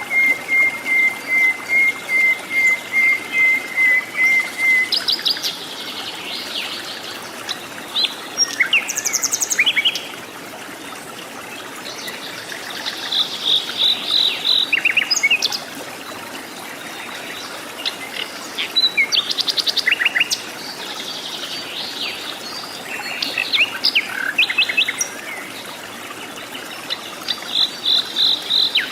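Several wild jungle birds calling. At first one bird repeats a short note at one pitch about five times a second; it stops about five seconds in. After that, various chirps, trills and quick twittering runs come from several birds, over a faint steady hiss of forest background.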